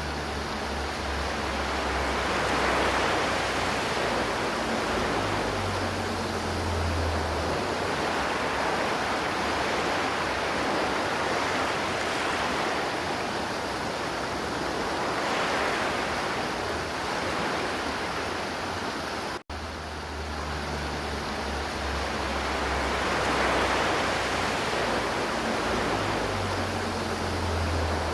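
River water flowing in a steady rush that slowly swells and eases. About 19 seconds in, the sound drops out for an instant where the recording loops back on itself.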